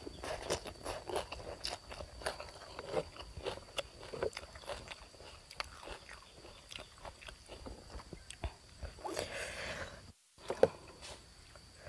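Close-miked eating: chewing and lip-smacking on rice noodles and fresh greens, a quick run of small wet clicks and smacks.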